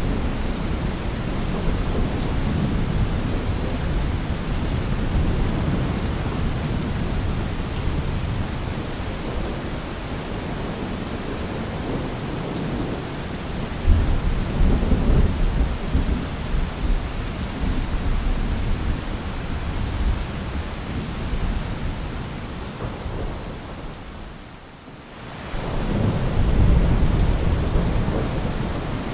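Thunderstorm: steady heavy rain with rolling thunder rumbling underneath. About halfway through a sudden loud thunderclap breaks in and rumbles on. Near the end the sound briefly drops away, then a deep thunder rumble swells back up.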